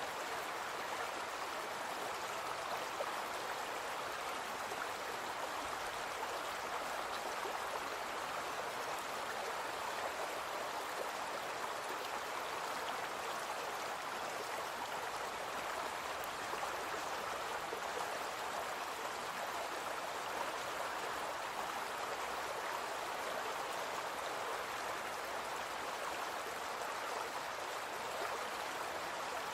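Small brook flowing, a steady, unbroken rush of water.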